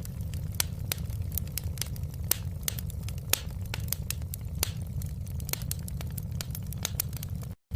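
Wood fire crackling, with frequent sharp pops and snaps over a steady low rumble. The sound cuts out for a split second near the end.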